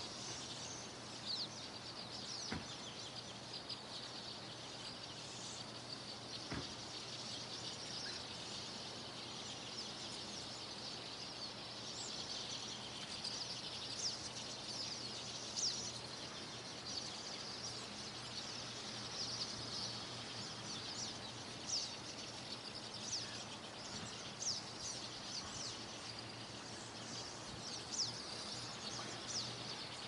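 Songbirds chirping outdoors: many short, high chirps and quick trills, coming thicker in the second half, over a steady faint hiss.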